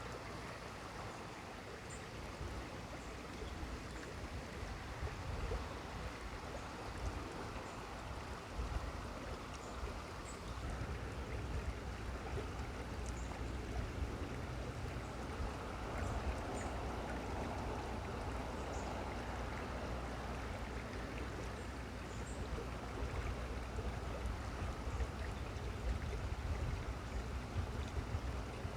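Steady rushing outdoor noise with a low rumble, a little louder about a third of the way through. Faint, short high bird chirps sound now and then.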